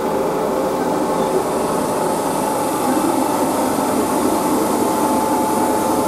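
Great Western Railway Class 769 multiple unit moving slowly along a platform under 25 kV overhead power, a steady running noise with a thin steady whine.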